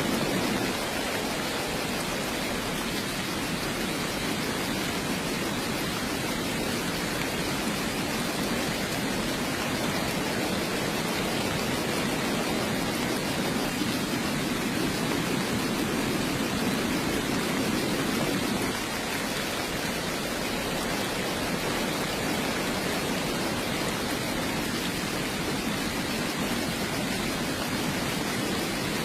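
Heavy rain falling steadily: an even, unbroken hiss with no separate drops standing out.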